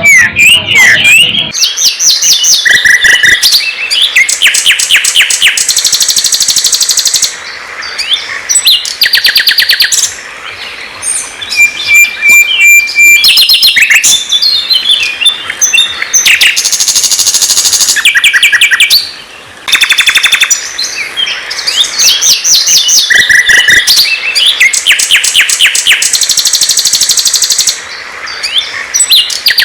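Loud songbird song: bouts of fast, evenly repeated trilled notes lasting a second or two, alternating with varied short chirps and whistles, and one held high whistle about halfway through.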